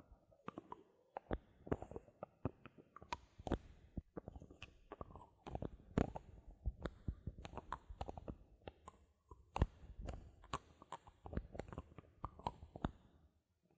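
Bottle caps handled close to the microphone for ASMR: a quick, irregular run of small sharp clicks and light knocks, with a brief pause about four seconds in.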